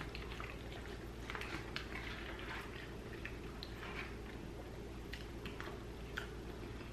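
Faint mouth sounds of a person chewing food: soft wet clicks and smacks scattered through, over a steady low room hum.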